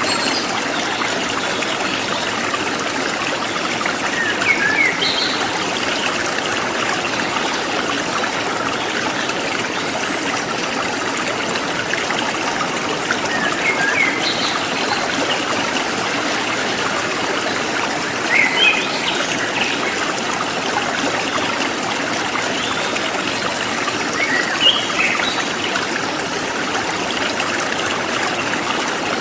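A forest stream running steadily over stones. Short bird chirps break through a few times, about four seconds in, around the middle, and twice in the last third.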